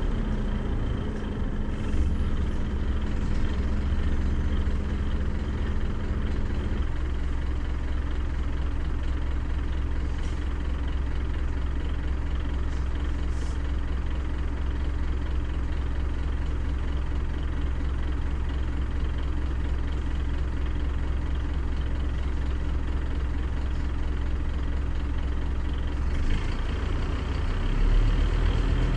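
Scania CN270UB city bus on the move, heard from on board: a steady low engine drone with road noise, and a faint steady whine that stops about seven seconds in.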